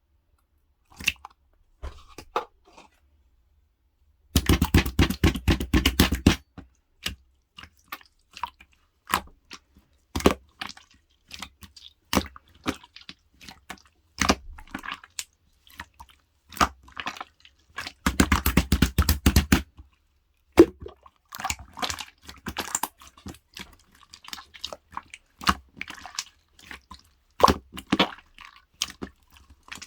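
Crunchy, crackling clicks of something being squeezed and worked by hand, scattered throughout, with two dense runs of rapid crackling, one about four seconds in and one about eighteen seconds in.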